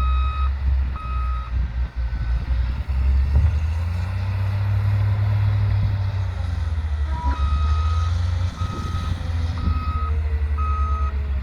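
Vehicle reversing alarm beeping about once a second, twice at the start, then again four times near the end, over a steady low engine rumble.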